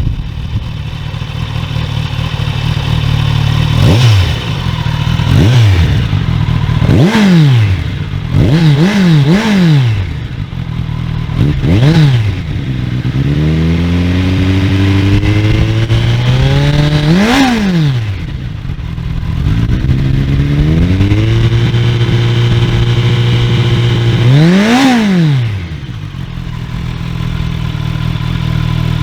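2021 Kawasaki Ninja 1000SX's inline-four engine, breathing through a titanium LeoVince end can, idling and being revved in place. A string of short throttle blips comes first, some in quick pairs, then the revs climb slowly to a peak and drop back. Later the revs are held steady for a few seconds, followed by one last sharp blip before it settles to idle.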